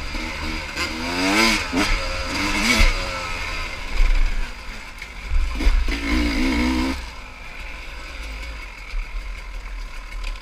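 Pit bike engine revving up and down in two spells, pitch rising and falling, over wind rumble on the microphone; it eases to a quieter run about seven seconds in.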